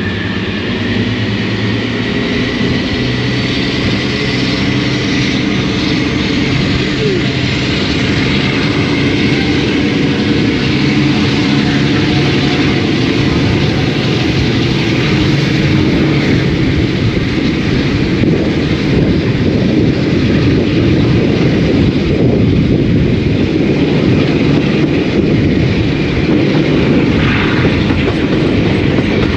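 The twin Maybach diesel engines of Class 52 diesel-hydraulic locomotive D1015 Western Champion working hard as the train pulls away, heard from the coach behind. A high whine rises steadily in pitch over the first several seconds while the engine sound builds.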